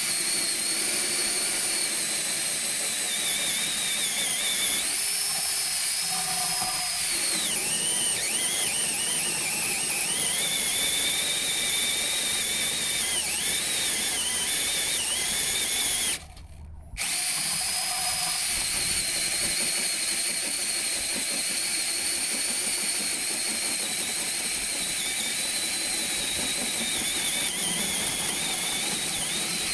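Power drill driving a tungsten-carbide-tipped hole saw, running continuously with a high whine whose pitch dips and wavers as the cut loads it. It stops for about a second some sixteen seconds in, then runs on.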